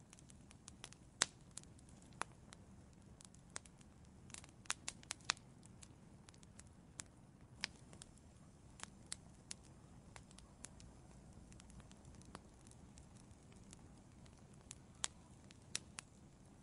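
Wood fire burning in an outdoor fireplace: irregular sharp crackles and pops, some in quick clusters, over a faint low rumble of the flames.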